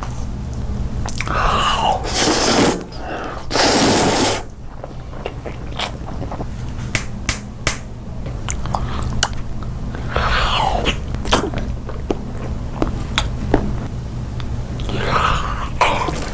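Close-miked mukbang eating sounds: biting and crunchy chewing with many sharp crackling clicks, and a few louder rushing noises in between.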